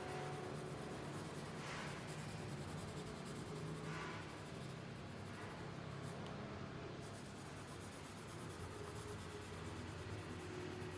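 Graphite pencil scratching and shading on paper, a faint steady rasp with slightly stronger strokes about two and four seconds in.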